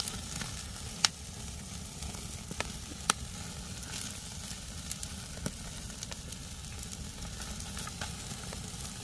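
Semi-dried sea bass grilling over a wood fire, its fat sizzling steadily with sharp pops and crackles now and then. The loudest pops come about a second in and about three seconds in.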